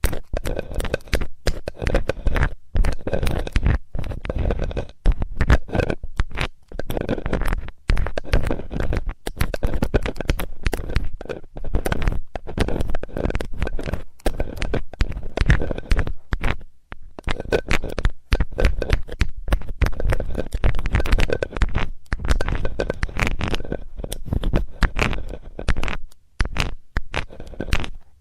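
ASMR ear cleaning with a metal tool: continuous close scraping and rubbing, dense with small clicks, with a few brief pauses.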